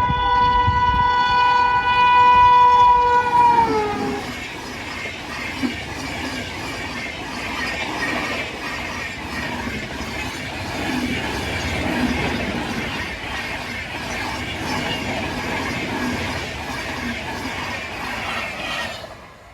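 An express train's locomotive horn blows one long, loud blast that drops in pitch as the locomotive passes. The train's coaches then rush by, their wheels clattering over the rail joints, until the sound falls away suddenly near the end.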